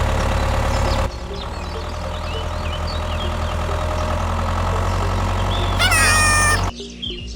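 A small engine running steadily with a low hum, with birds chirping over it; the sound drops abruptly about a second in. Near the end comes a short rising cry, then it cuts off suddenly.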